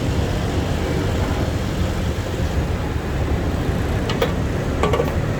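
Motorcycle riding in city traffic: a steady low rumble of engine and road noise. A few short sharp clicks or knocks come about four to five seconds in.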